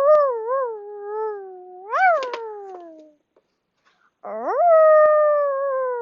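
Two long dog-style howls, each rising quickly, then held and sliding slowly down in pitch. The first wavers and swoops up again about two seconds in; the second starts about four seconds in. This is the howl that signals the way home is clear.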